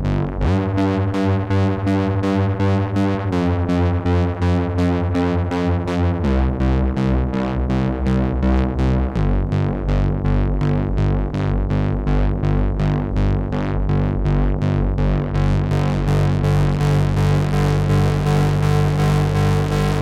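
Behringer 2600 analog synthesizer playing a rapidly pulsing sequenced patch. Over the first nine seconds the underlying notes step to a new pitch about every three seconds, then settle into one held tone.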